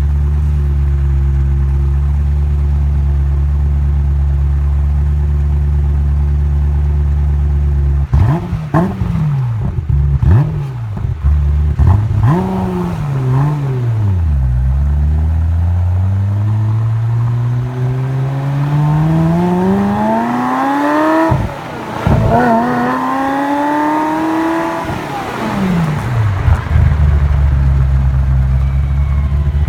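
Ferrari F355's flat-plane V8 through a full Tubi exhaust. It idles steadily, then is blipped quickly about three times from about eight seconds in. It then climbs in a long rising rev, dips briefly and climbs again, and falls back to idle near the end.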